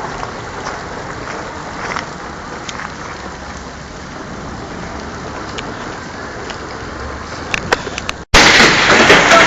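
Hail and heavy rain falling: a steady hiss with scattered sharp clicks of hailstones striking. A little after eight seconds the sound drops out for an instant and comes back much louder.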